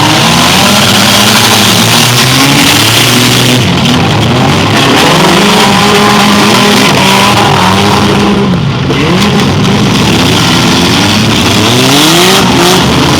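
Several demolition derby cars' engines revving hard at once, their pitches rising and falling over one another in overlapping glides.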